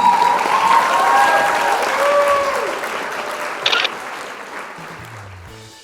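Crowd applauding and cheering, with a few voices calling out early on, fading away steadily.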